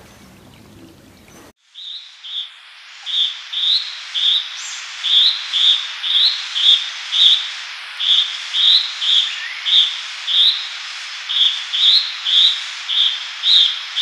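Faint patter of rain at first. Then, from about a second and a half in, a steady hiss with a small bird's short high chirps repeating about twice a second.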